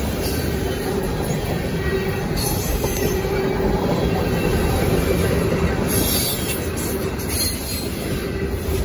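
Freight train of tank cars and covered hoppers passing at a grade crossing: the steady running noise of steel wheels on rail, with a faint steady tone above it.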